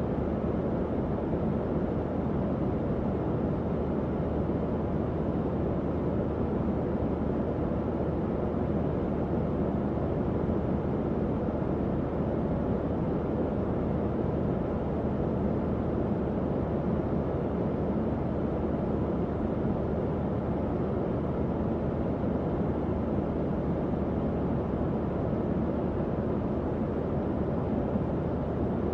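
Tower fan running steadily: an even, low-pitched whoosh of moving air with a faint motor hum underneath.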